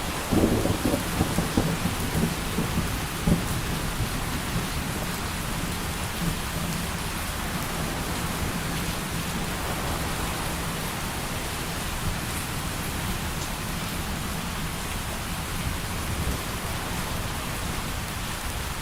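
Heavy rain pouring steadily, with a rumble of thunder in the first few seconds that fades out, leaving only the rain.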